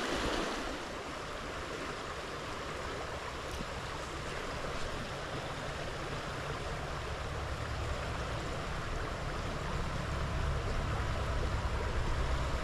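Stream water running, a steady rushing hiss, with a low rumble underneath that grows louder toward the end.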